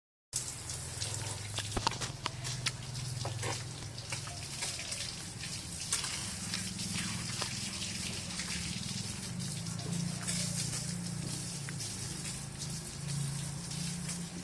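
Water from a hose spraying and splashing on a motorcycle during washing, with scattered drips and splashes over a steady low hum.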